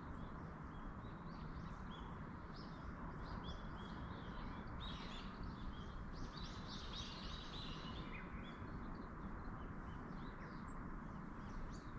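Mountain forest ambience: a steady wash of wind in the trees, with small birds chirping and calling throughout, busiest in the middle.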